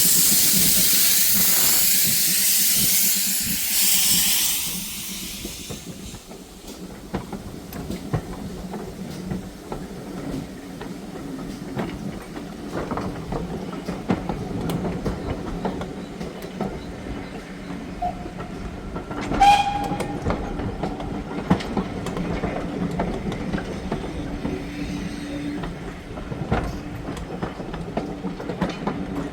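Steam locomotive and train: a loud hiss of steam for the first few seconds, then the train running on with wheels clicking over the rail joints. A short high-pitched note sounds about two-thirds of the way through.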